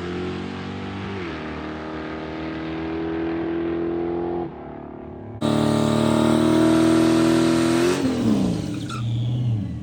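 Car or truck engine running at a steady speed, with its pitch shifting now and then. It turns abruptly louder and brighter about five seconds in, and its pitch drops away near the end as it slows.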